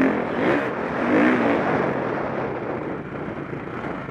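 KTM 525 SX four-stroke single-cylinder motocross engine revving up and down under the rider's throttle, then running more steadily and a little quieter after about two seconds.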